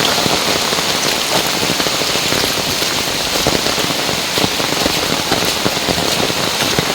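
Heavy rain falling steadily: a dense, even hiss with many close raindrops pattering on an umbrella overhead.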